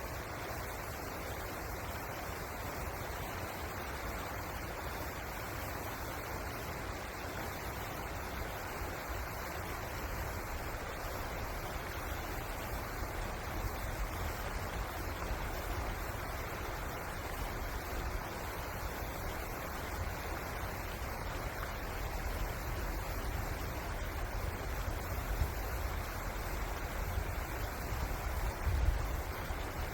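River water rushing steadily. A low rumble swells in the second half, with a brief low bump near the end.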